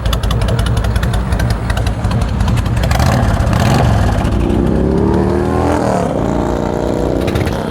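A Honda VTX1300C's 1300cc liquid-cooled V-twin running through Vance & Hines Long Shot exhaust pipes. The throttle is opened about halfway through and the engine note rises, then eases back. It runs cleanly, with no abnormal engine noise.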